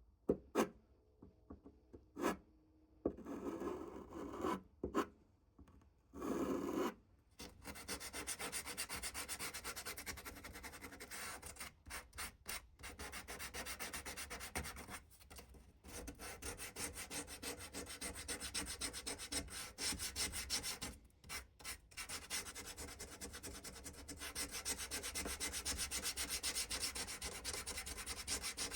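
Wood of an antique cedar chest being sanded: a few separate knocks in the first seconds, then steady scraping in long runs broken by short pauses.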